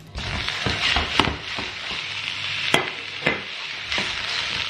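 Meatballs dropped into a hot frying pan, starting to sizzle at once. Several sharp knocks in the first few seconds, as they land and shift in the pan.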